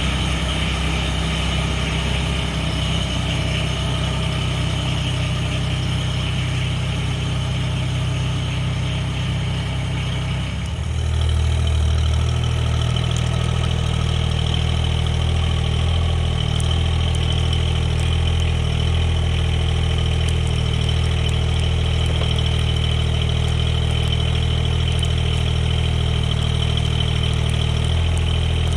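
Mahindra eMax 20S HST compact tractor's small three-cylinder diesel engine running steadily; about eleven seconds in its note shifts and it gets a little louder, then holds.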